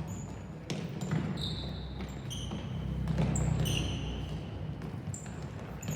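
Sneakers squeaking on a gym floor, over and over, with a few knocks of a ball bouncing on the court, against the low hum of a large hall.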